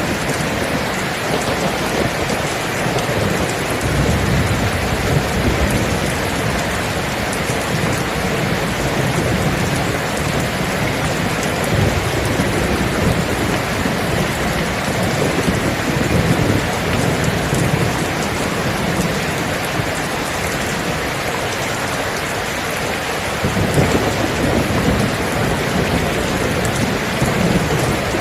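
Steady rain falling, with low rolling thunder that swells a few seconds in, rumbles again through the middle, and comes back near the end.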